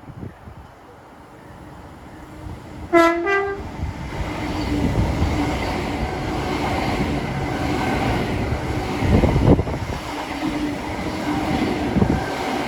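Train horn sounding one short two-note blast about three seconds in, followed by a train's rumble and rail noise that builds and holds steady as it moves along the platform.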